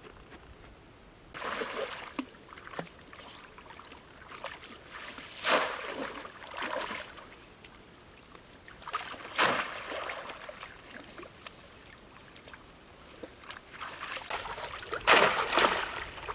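Water splashing and sloshing in about five separate bursts, the loudest near the end, with faint trickling between them.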